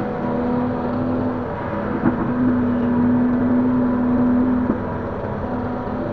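Link-Belt 145X3E hydraulic excavator's diesel engine running steadily under hydraulic load. Its hum swells for a couple of seconds in the middle, with short sharp knocks about two seconds in and again near five seconds.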